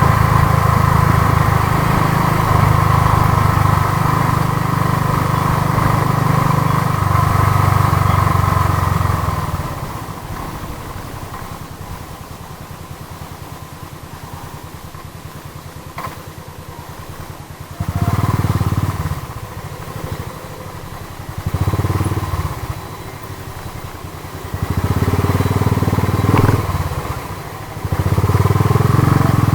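Royal Enfield Thunderbird 350 single-cylinder engine running under throttle on the move, with wind on the microphone. After about ten seconds it eases off to a quieter running for several seconds, then picks up again in short surges of throttle, four times toward the end.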